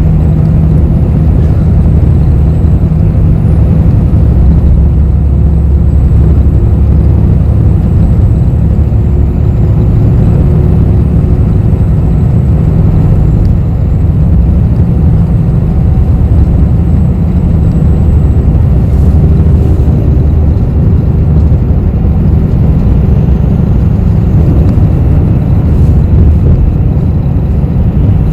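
Steady low rumble of a city bus heard from inside the cabin: engine and running noise, with a faint steady hum above it.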